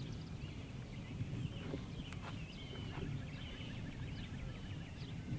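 Birds chirping and calling in many short, high notes, with a quick run of even ticking notes in the second half, over a steady low rumble of wind on the microphone.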